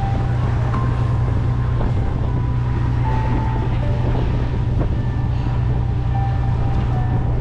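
A boat's engine runs with a steady low drone, wind buffeting the microphone over it. Faint short held notes sound on top at intervals.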